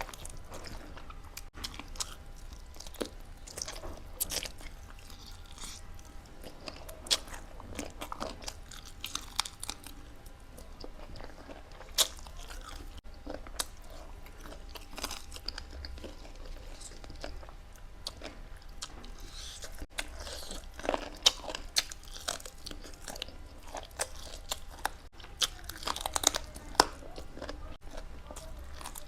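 Close-miked chewing and biting of food, with many sharp, irregular crunches.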